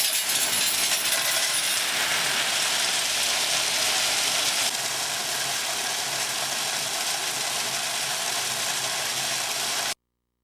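Rocks pouring into a deep hole, a dense steady rattle and clatter of stone. It drops slightly in level about halfway through and cuts off abruptly near the end.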